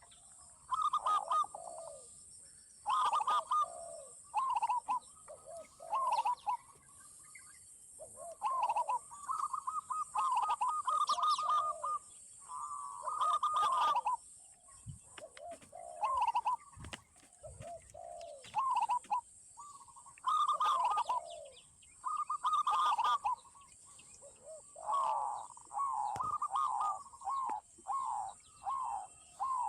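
Zebra doves and spotted doves cooing, a string of trilled, rolling coo phrases following each other every second or two, some overlapping.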